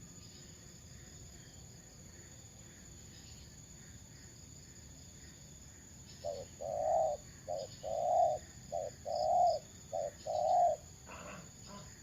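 A dove cooing, four calls in a row about a second apart, each a short note followed by a longer one, over faint high chirping in the background.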